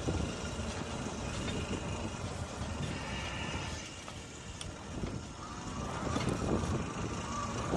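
Riding noise on an e-bike: wind rushing over the microphone with road and tyre rumble, and a faint whine that fades out in the middle and returns.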